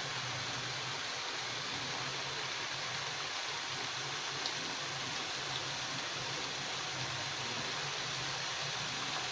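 Pieces of maida dough deep-frying in hot oil: a steady sizzle, with a couple of small pops about four and a half and five and a half seconds in.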